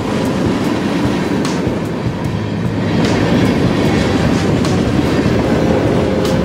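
Freight train of covered hopper cars and tank cars rolling past close by: a steady rumble of steel wheels on rail, with a sharp clack about every second and a half as the wheel trucks cross a rail joint.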